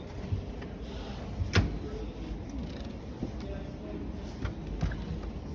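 Sharp knocks and clunks of display washing machine doors being handled, the loudest about a second and a half in and two lighter ones near the end, over background voices.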